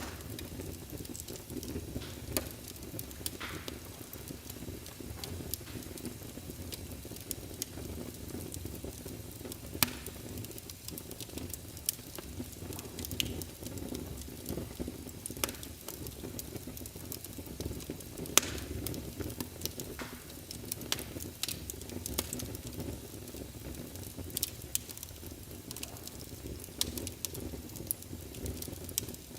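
Wood fire crackling in a fireplace: irregular sharp pops and snaps over a low, steady rumble of flame, with a couple of louder pops along the way.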